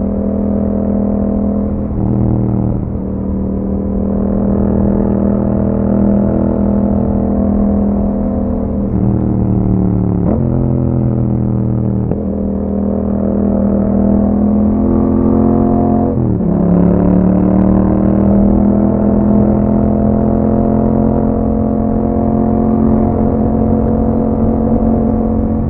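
2021 Yamaha MT-07's parallel-twin engine through an Akrapovic exhaust, running under way with its pitch rising and falling as engine speed changes, with sharp drops in pitch and recoveries about 2, 10, 12 and 16 seconds in.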